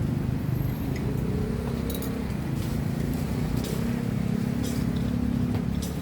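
Vehicle engines of road traffic running close by, a steady low rumble whose pitch shifts slowly, with a few light clinks.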